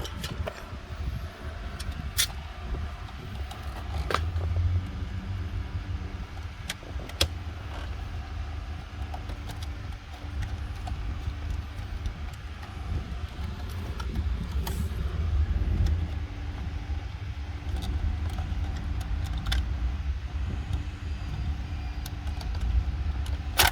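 Scattered sharp clicks and knocks of plastic dashboard trim, clips and wiring connectors being handled and pulled apart, over a steady low rumble.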